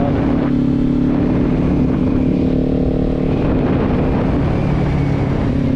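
Kawasaki Z400's parallel-twin engine running at a steady speed while the motorcycle cruises, an even drone with no revving.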